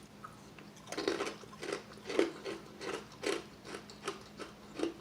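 Close-miked chewing of crispy fried chicken wings: a run of crunches, about two to three a second, starting about a second in.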